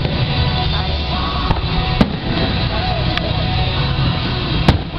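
Aerial firework shells bursting with sharp bangs, the loudest about two seconds in and near the end, over loud music playing continuously.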